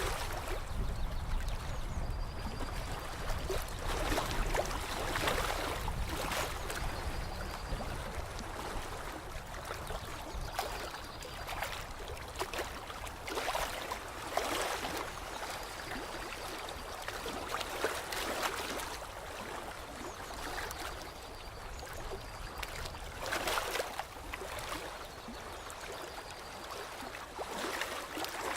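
Water lapping and trickling in irregular surges every second or two. A faint, short high note recurs every few seconds.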